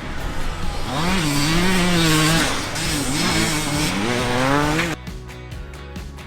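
KTM 300 two-stroke dirt bike engine revving, its pitch rising and falling several times, over background music; the engine sound stops abruptly about five seconds in, leaving the music.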